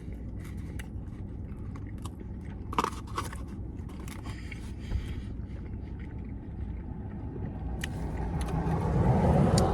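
Biting into and chewing a teriyaki-sauced McChicken sandwich, with scattered clicks and rustles, over a steady low rumble; a louder rushing swell builds near the end.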